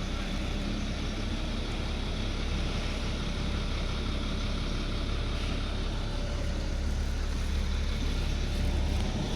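Big diesel truck engine running steadily with a low rumble, getting slightly louder near the end.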